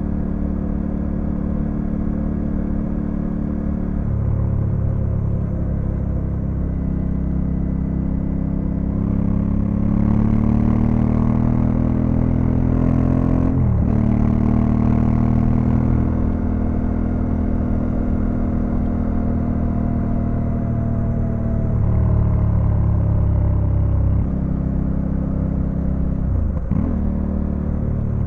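Honda Africa Twin CRF1100L parallel-twin engine running under way, revs rising and settling as the bike rides. Two brief sharp dips in revs come about halfway through and near the end.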